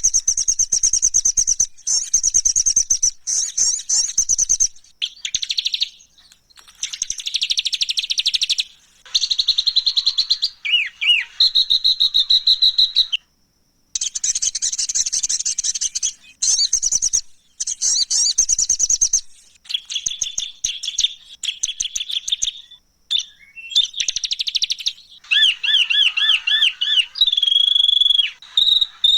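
Songbird song played as masteran (a tutor recording for training songbirds), made up of harsh, rough phrases: bursts of very fast, high, buzzy trills and rattles lasting a second or two each, with short pauses between them. Near the end come some clearer whistled and warbled notes.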